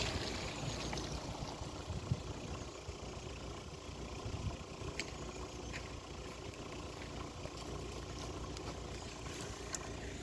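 A small car's engine heard at a distance as the car drives away up a muddy track, fading over the first few seconds and then running on faint and steady.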